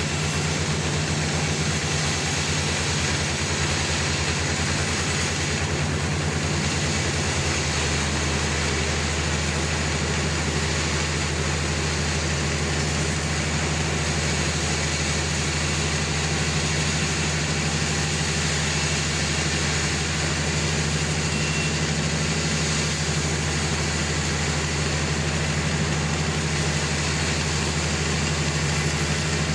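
Sawmill running steadily, a constant low machine hum with steady noise over it; the lowest part of the hum changes from a flutter to a smooth drone about eight seconds in.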